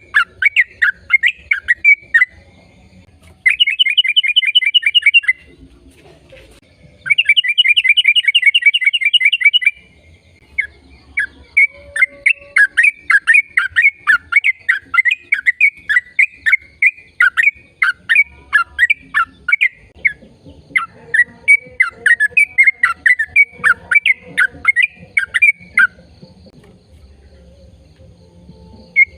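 A bird singing: loud, repeated sharp chirps, with two fast trills of about two seconds each a few seconds in, then a long run of quick falling chirps that stops near the end.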